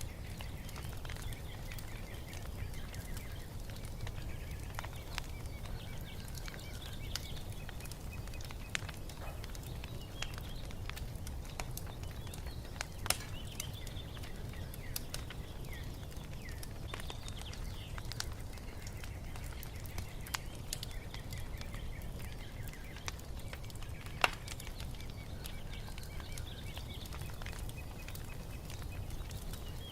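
Wood fire crackling, with a steady low rumble and scattered sharp pops, two of them louder, one near the middle and one later. Birds chirp and sing faintly behind it throughout.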